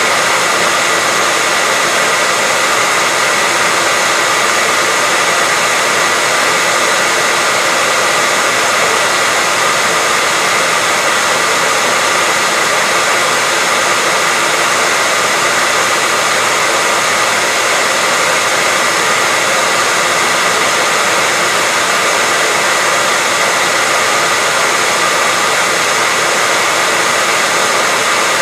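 Hairdryer running continuously: a steady rushing blow of air with a faint high whine from the motor and fan.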